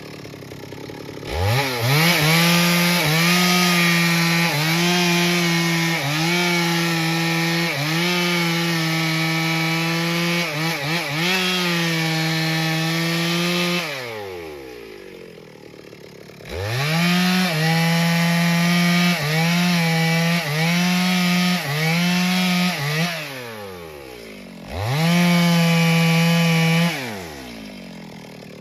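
Two-stroke chainsaw revved to full throttle and cutting into wood in three runs: a long one of about twelve seconds, a shorter one, then a brief one near the end. Its pitch sags a little as the chain bites under load. Between runs it drops back toward idle.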